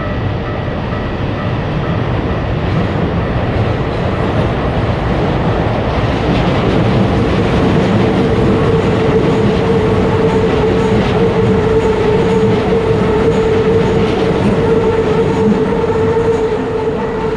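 Train running past: a steady rumble with the clicking of wheels over rail joints, and a steady whine coming in about six seconds in. It builds toward the middle and eases a little near the end.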